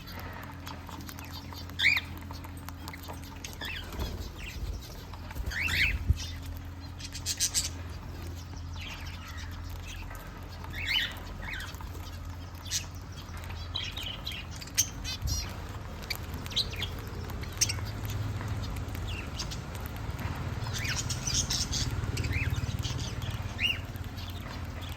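Birds at feeding time chirping and squawking in short, scattered calls, with a few sharp knocks or clicks and a low steady hum underneath.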